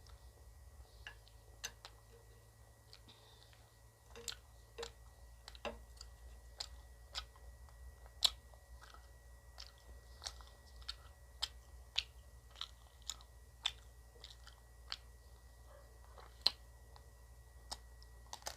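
Close-miked eating of ice cream: a person biting and chewing, giving a run of short, sharp crunching clicks about two a second, with a short pause about two seconds in.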